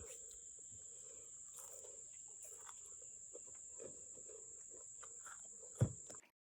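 Quiet eating sounds: faint irregular chewing and small clicks as fried stuffed tofu and chilies are eaten, over a steady high insect trill like a cricket. A single sharp knock comes near the end, and the sound cuts off abruptly just after it.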